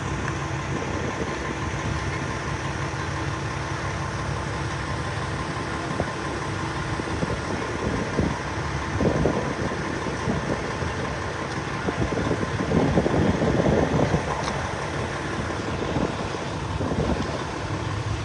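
Vehicle engines idling steadily, with louder swells of rumbling noise about nine and thirteen seconds in.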